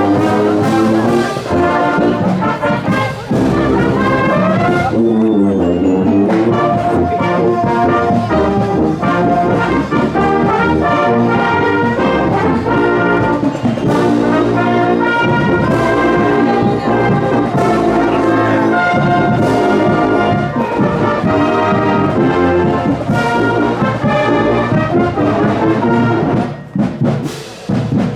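A high school marching band playing as it parades: brass (trombones and trumpets) carrying the tune over a steady drum beat, briefly dropping back near the end.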